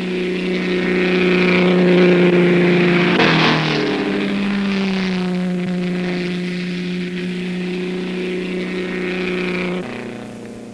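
Vintage racing car engine running at sustained high revs, a steady note that shifts slightly about three seconds in. The sound cuts off abruptly near the end, leaving a fainter engine note.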